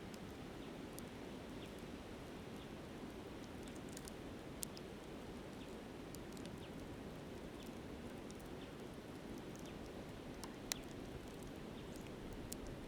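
Wood campfire crackling with scattered sharp pops, two of them louder, over the steady rush of a flowing river.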